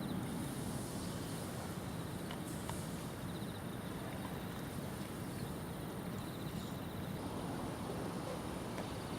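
Steady outdoor background noise at a riverside, with faint short high-pitched trills recurring about every three seconds.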